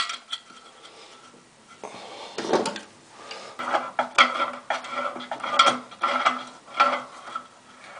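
Plastic shim being pushed into the handle hole of a porcelain toilet tank: scraping and clicking of plastic and the handle's metal against the tank, in a run of short bursts through the second half with a faint ringing.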